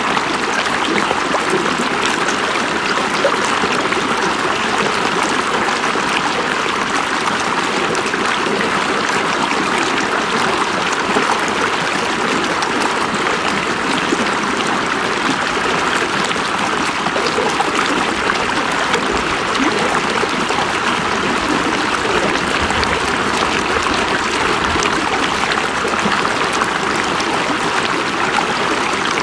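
A river or stream running steadily over rocks: continuous rushing and babbling water with fine splashes throughout.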